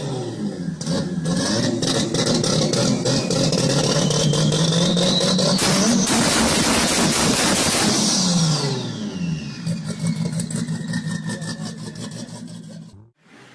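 Japanese performance car's engine revving hard, its pitch climbing for several seconds to a loud peak, then dropping away and fading out near the end.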